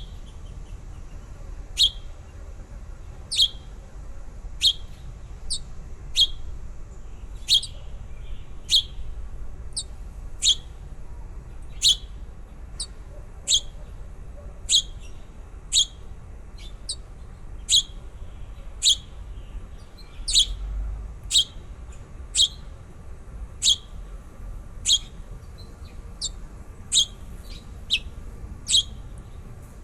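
A small bird chirping repeatedly: short, sharp, high chirps, about one a second.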